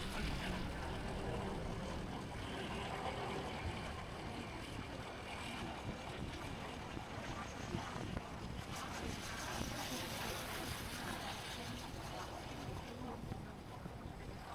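Motorbike riding in city traffic: steady engine and road noise with wind rushing over the microphone.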